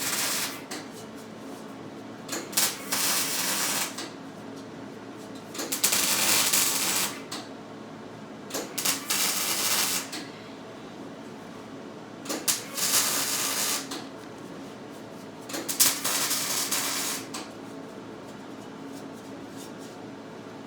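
Small paintbrush scrubbing paint onto the baler's metal hay pickup in repeated scratchy strokes, six bursts of about a second and a half each, roughly every three seconds.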